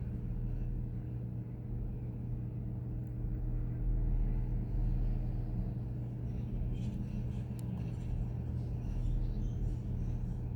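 Steady low mechanical hum, with faint light clicks and rustles from about seven to nine seconds in.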